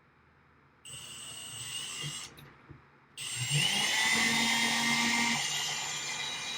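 Electric drill drilling a hole in a rack case's outer rail: a short first run about a second in, a brief pause, then the drill spins up again just after three seconds and runs steadily, easing off slightly near the end.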